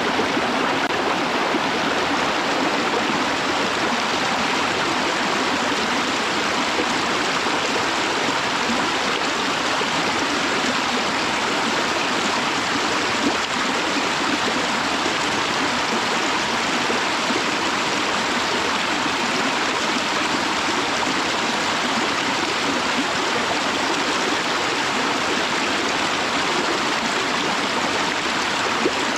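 Waterfall, heard from near the lip of the fall: water rushing in a steady, even hiss that does not change.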